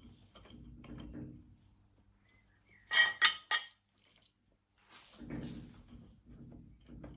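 Handling of small metal tools and parts: soft knocks and rustles, with three sharp metallic clinks in quick succession about three seconds in.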